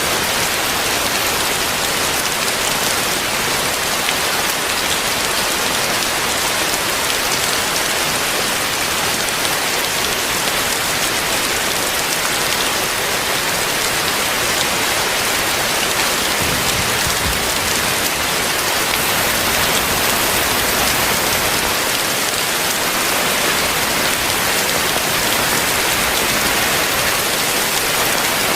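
Heavy rain falling and hitting surfaces, a steady dense hiss. A brief low rumble sounds about 17 seconds in.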